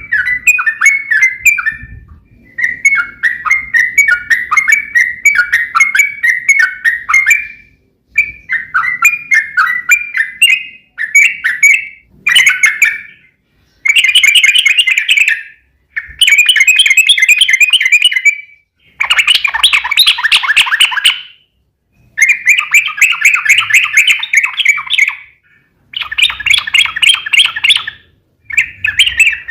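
Yellow-vented bulbul (trucuk) singing: loud, bubbling chattering phrases, each one to three seconds long with short gaps between, becoming denser and louder about halfway through. This is the long rolling song (ropel panjang) used as a lure to make other trucuk birds answer.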